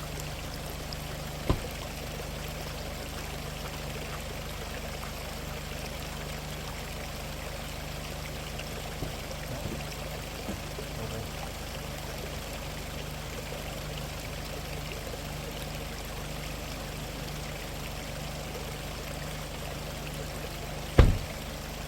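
Valley stream water flowing steadily over a faint low hum, with a sharp knock about a second and a half in and a louder knock near the end.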